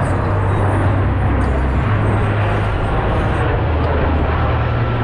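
Jet aircraft engines running with a steady, loud noise, heaviest in the low end.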